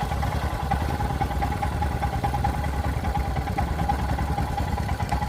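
Motorcycle engine running steadily, a low rumble with a thin steady whine above it.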